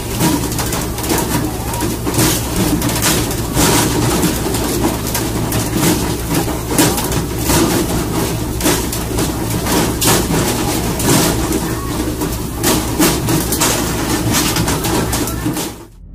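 Fishing boat's engine drone and rushing sea water, with a rapid, irregular run of sharp thuds and slaps as pole-caught tuna are swung aboard and land flapping on the deck. The sound cuts off just before the end.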